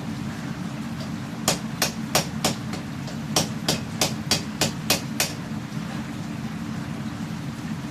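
Hand hammer striking steel on an anvil while forging a katana blade: a run of four quick blows, a short pause, then seven more, about three a second.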